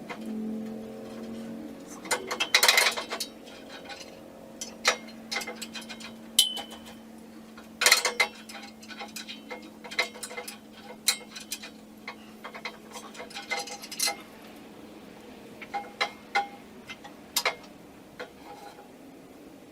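Irregular metallic clinks, clicks and knocks, like hand tools and hardware being handled and set down during assembly, some with a short ringing tail.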